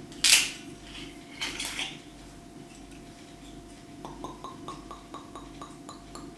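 Kitchenware being handled: a sharp knock, then a few light clinks, then a run of quick, even ticks at about five a second.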